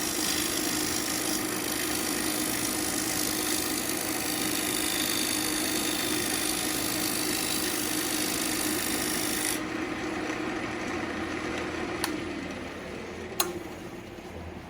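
Wood lathe turning an ambrosia maple bowl blank while a turning tool cuts into it: a dense hiss of shavings over the steady motor hum. About ten seconds in the cutting stops. Two sharp clicks follow, and the hum sinks in pitch as the lathe winds down.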